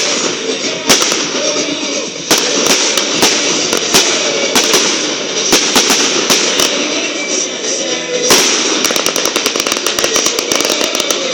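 Fireworks display: a string of sharp shell bursts and bangs, then a rapid run of crackling pops for the last few seconds, with music playing underneath.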